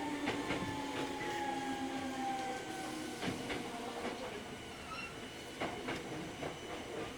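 Hankyu 3300 series electric train heard from inside the car. Its motor whine slides down in pitch as the train slows, and the wheels click over rail joints at irregular intervals.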